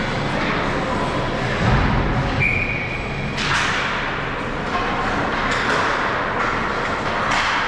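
Ice hockey game in an arena rink: a steady din of skating and play, broken by sharp clacks of sticks and puck, with a heavy thud against the boards about two seconds in and a brief high tone just after.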